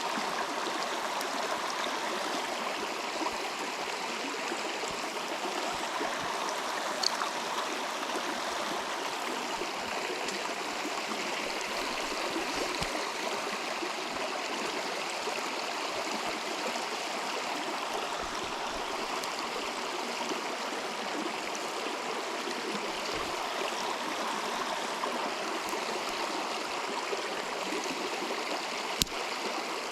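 Steady rushing of a flowing river, with a couple of faint sharp clicks.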